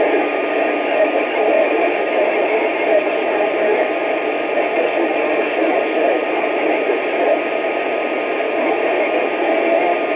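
Steady static hiss from a two-way radio's speaker, with a faint steady tone running through it.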